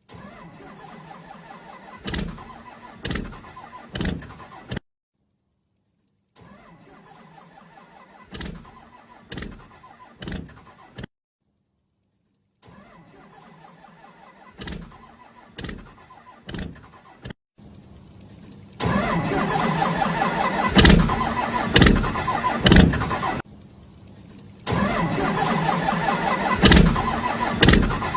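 Small motorbike engine running, with three or four loud pops about a second apart in each burst; the sound comes in several short clips separated by brief silences, the last two louder.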